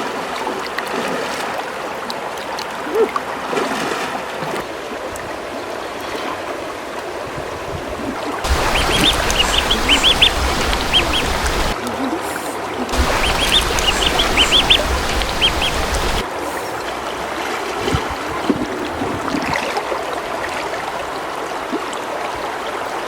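Birds calling over a steady rushing background, with two louder stretches in the middle holding quick runs of short high chirps.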